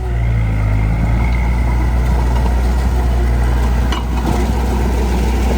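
Heavy diesel machinery engine running steadily with a deep low rumble, a little louder from the very start, with a brief click about four seconds in.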